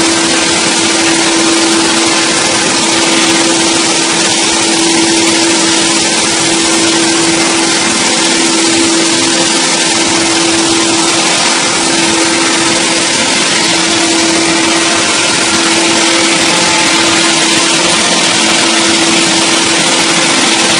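Chainsaw engine running steadily at high revs, one constant pitch throughout.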